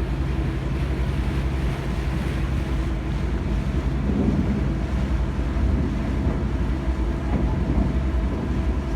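Sightseeing boat's engine running with a steady low drone, with wind buffeting the microphone.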